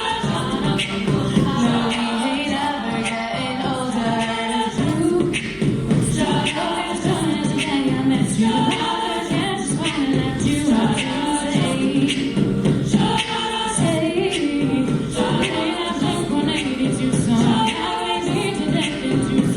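An a cappella vocal ensemble singing in layered harmony, several voices at once with no instruments.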